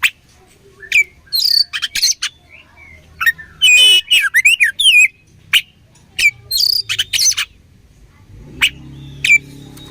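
Oriental magpie-robin (kacer) singing: loud, sharp whistled notes and quick sliding phrases in bursts, with a dense rapid run of notes about four seconds in.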